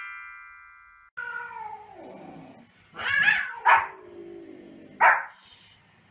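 A chime fading out over the first second, then a Pomeranian's drawn-out, falling cries and three sharp yapping barks.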